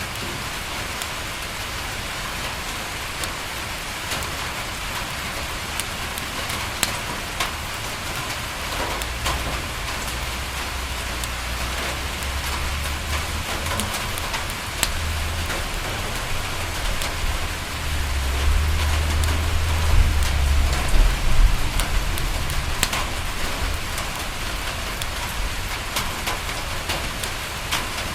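Steady rain falling on a window, with scattered sharp ticks throughout. A low rumble swells in about a third of the way through, is loudest around two-thirds in, then fades.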